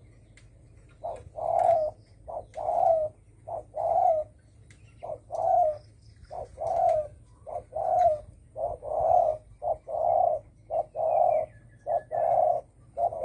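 Spotted dove cooing, a 'thổ sấm' style call. A long run of low, repeated coo notes in groups starts about a second in.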